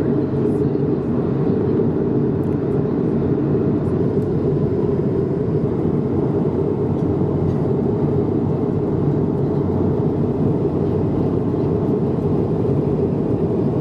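Steady, deep cabin drone of an Airbus A220-300 in flight: the noise of its Pratt & Whitney PW1500G geared turbofans and the rushing air outside, heard from a seat inside the cabin and holding even throughout.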